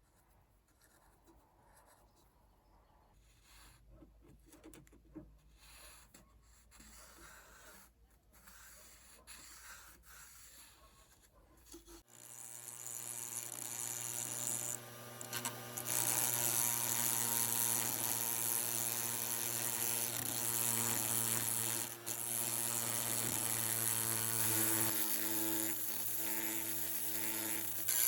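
Faint hand rubbing strokes, then about twelve seconds in an electric power tool starts, builds up over a few seconds and runs steadily with a buzzing hum.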